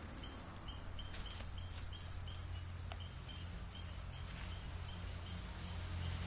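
A bird repeating a short, high chirp about three times a second, over a steady low hum, with a few light clicks just after a second in.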